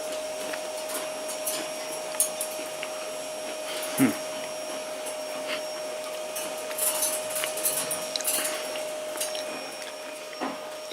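A steady electric hum and hiss from a small motor or fan, with scattered light clicks and scrapes. The hum stops shortly before the end.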